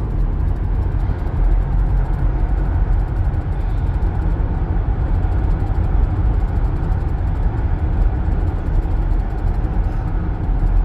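Steady road and engine rumble inside a moving car's cabin, a low even drone with no breaks.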